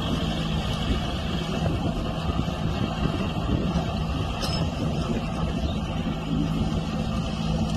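A large vehicle's engine running steadily, a continuous low hum with rumbling noise over it.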